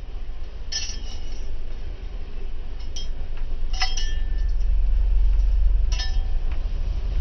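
Vehicle driving slowly over a rough dirt two-track: a steady low rumble, with loose items inside clinking sharply four times as it jolts over bumps.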